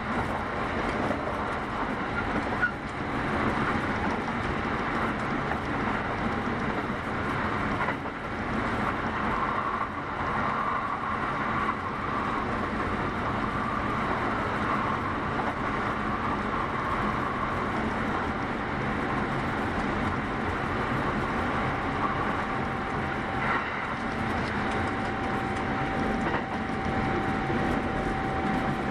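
Kintetsu 8810 series electric train running at speed, heard from inside the car: a steady rumble of wheels on rail. A faint steady whine joins about two-thirds of the way through.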